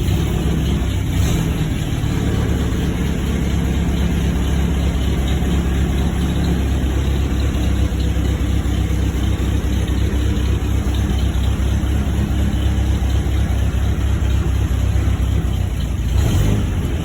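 1949 MG YT's four-cylinder engine running at low revs shortly after a cold start, with the car in reverse gear. The engine note changes about seven seconds in.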